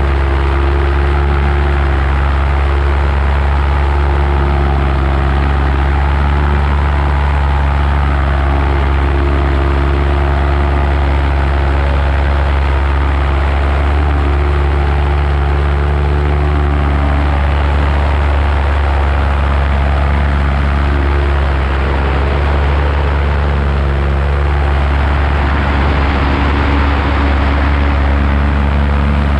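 Paramotor engine and propeller running steadily at constant power in flight.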